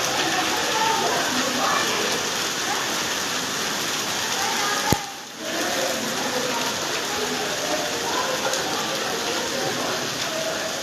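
Heavy rain falling, a steady dense hiss. About halfway through there is one sharp click, and the sound drops away for half a second before the rain comes back.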